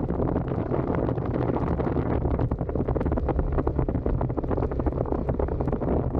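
Suzuki SV650's 90-degree V-twin running through its stock exhaust at a steady cruise, with wind rushing over the microphone.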